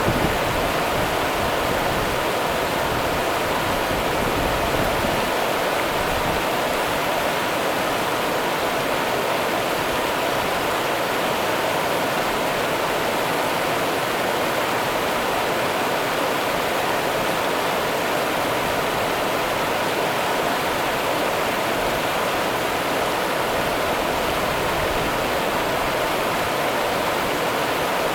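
Rio Grande river water running: a steady, even rushing with no breaks.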